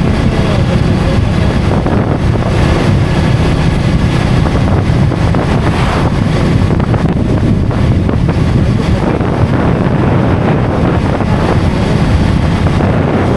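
KTM Duke 250 single-cylinder motorcycle being ridden at steady speed, its engine running under wind noise buffeting the microphone and tyre noise from the road.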